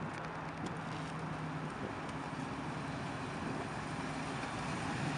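Chevrolet Chevelle's engine running steadily as the car drives slowly across the lot.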